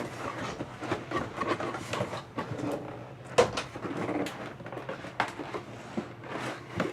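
Packaging of a toy box being handled and opened by hand: scattered light clicks, taps and rustles of cardboard and plastic.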